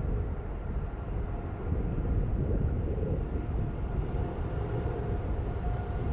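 A steady low rumble with a faint, steady whine above it, the outdoor noise of footage of an airliner at an airport.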